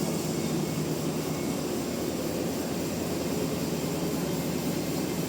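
Sawmill machinery running with a steady mechanical drone.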